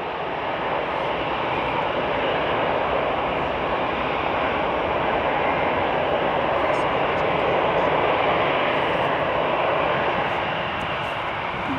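Jet aircraft engine noise, a steady roar that swells a little and eases off near the end.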